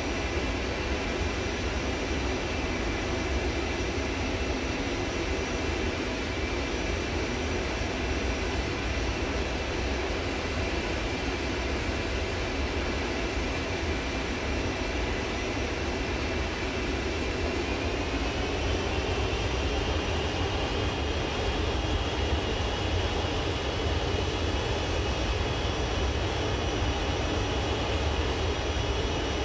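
Airliner jet engines running steadily: a low rumble under a high whine, the whine rising slightly in pitch about two-thirds of the way through.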